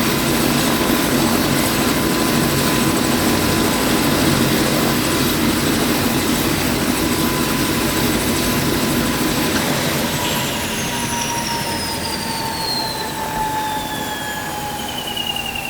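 Helicopter turbine running steadily with a high whine. About ten seconds in the whine starts falling steadily in pitch and the sound slowly grows quieter as the engine winds down.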